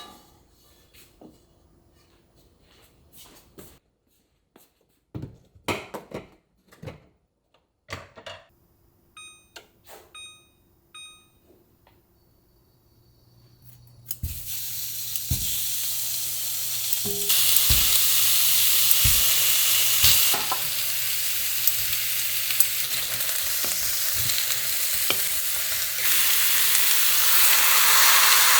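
Scattered kitchen knocks and a few short electronic beeps, then, about halfway through, food starts sizzling loudly as it fries in a hot cast-iron pan, the sizzle growing stronger a few seconds later over a low steady hum.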